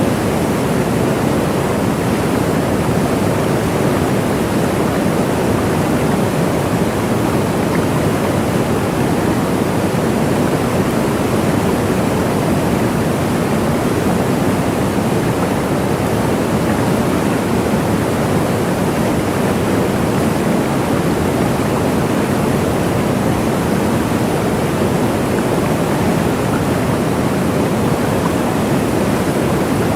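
Waterfall: water falling and splashing in a dense, steady rush, strongest in the low-middle range, with no breaks or changes.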